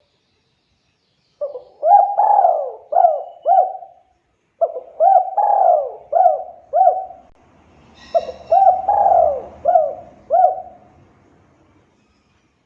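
Spotted dove (tekukur) cooing: three phrases of several swooping coo notes, each phrase a couple of seconds long with short pauses between.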